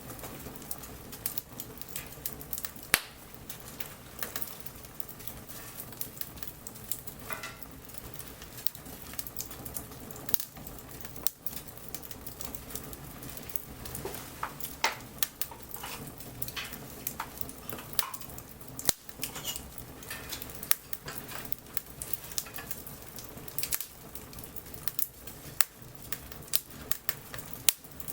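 Wood bonfire crackling, with frequent sharp pops of burning wood over a steady low rush of the flames; the loudest pop comes about three seconds in.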